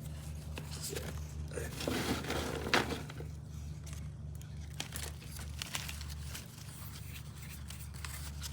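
Orchid potting mix of charcoal pieces and perlite being handled and dropped loosely into a pot: scattered light crunching and rustling, densest about two to three seconds in.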